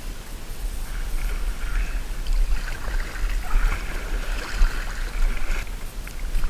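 Water splashing and swishing around a kayak on the river, with a low wind rumble on the microphone; the splashing hiss stops abruptly about a second before the end.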